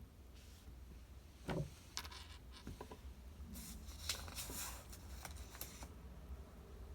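Small handling noises at a study desk: a soft knock about one and a half seconds in, a few light clicks, then a couple of seconds of rustling or scraping, over a low steady hum.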